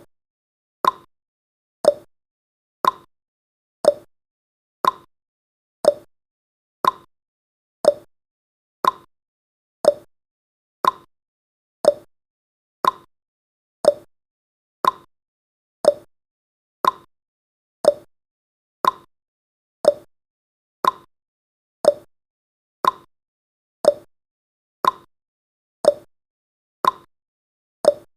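Countdown timer's clock-tick sound effect: a short sharp tick once every second, alternating between a slightly higher and a slightly lower tick like a tick-tock.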